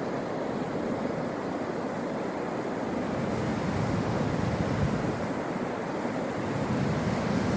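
Ocean surf: waves breaking and washing up the beach in a steady rushing noise that swells for a few seconds in the middle, with some wind buffeting the microphone.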